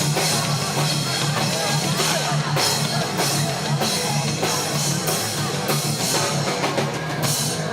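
Live hardcore band playing loud and full: distorted guitar, bass and drums with repeated cymbal crashes, which stop shortly before the end.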